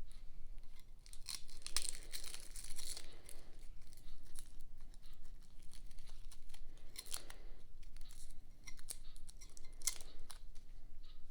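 Garlic being handled and peeled: dry papery skins tearing and crinkling, with small sharp clicks throughout and a denser run of crackling about two seconds in.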